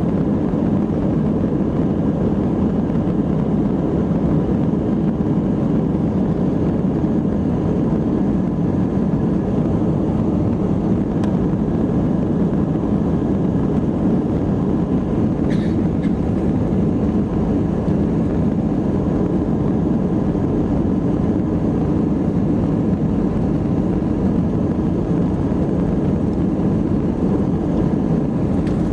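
Airbus A319 jet engines at full takeoff thrust heard from inside the passenger cabin: a loud, steady, deep roar with a rush of air noise over it.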